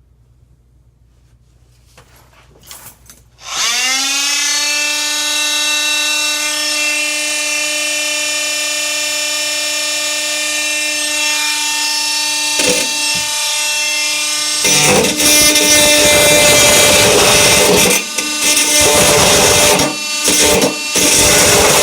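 Makita power tool switched on about three and a half seconds in, its motor spinning up to a steady high whine, then louder and rougher from about fifteen seconds in as it cuts through the rusted metal of a stuck sink strainer, with a few brief stops near the end.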